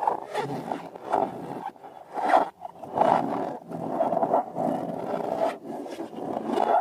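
Slime squelching and rasping as it is squeezed and worked, a rough, continuous sound that swells and eases.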